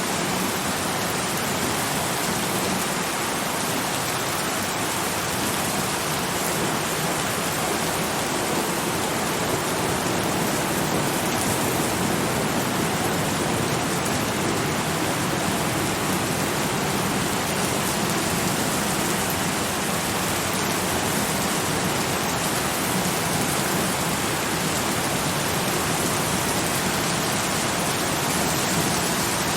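Steady, heavy rain falling, an even hiss with no breaks or single drops standing out.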